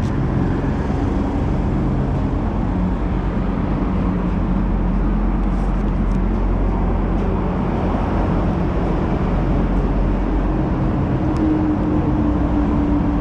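Steady motor vehicle engine and road traffic noise, with a constant low hum, and a tone that holds for a couple of seconds near the end.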